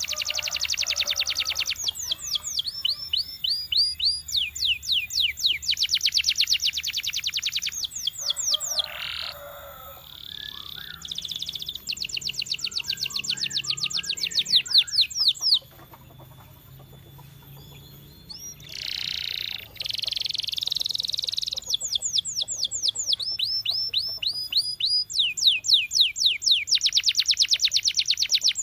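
Domestic canary singing: fast trills of rapidly repeated high notes in runs of a few seconds, some notes sweeping down in pitch, with a short lull about sixteen seconds in before the song resumes.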